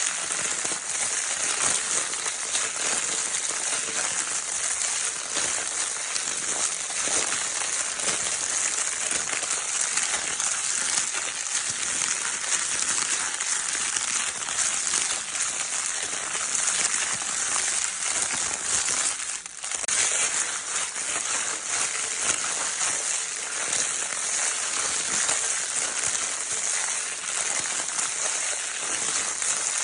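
Baby crinkle paper toy being scrunched continuously, a dense crackling rustle with a brief pause about two-thirds of the way through.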